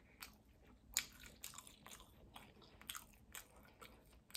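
A person chewing food: faint, irregular wet mouth clicks and smacks, the loudest about a second in.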